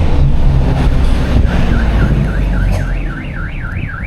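An electronic warbling alarm, like a car alarm, starts about a second and a half in, its pitch swinging up and down about four times a second and widening as it goes. A low vehicle engine rumble runs underneath in the first half.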